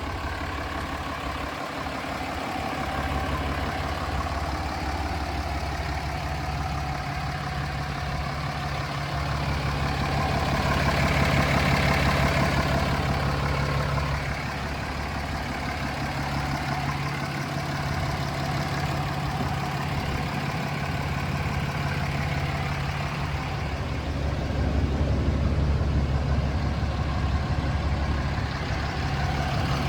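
6.7-litre Cummins turbo-diesel inline-six of a 2016 Ram 2500 idling with a steady low hum, growing louder twice, about a third of the way in and near the end.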